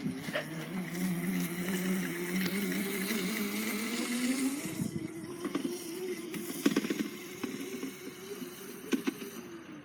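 Small dirt bike's motor running as it is ridden, its note climbing in pitch about four seconds in, holding, then dropping near the end as it slows.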